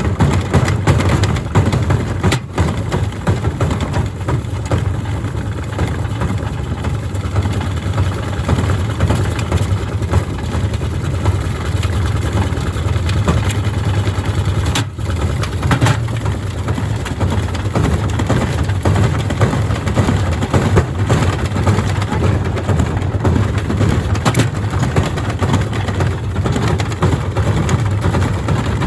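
Gorenje SensoCare washing machine running loaded with heavy bricks. Its motor gives a loud, steady low hum under continuous dense rattling and knocking as the bricks are thrown around the drum.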